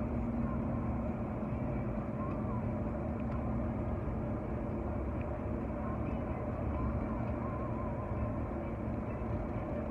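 Steady road noise inside a moving car's cabin: engine hum and tyres rolling on a snowy highway.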